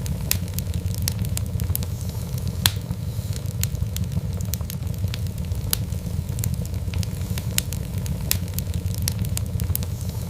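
Wood fire crackling: frequent sharp pops and snaps over a steady low rumble of the flames, with one louder pop a little under three seconds in.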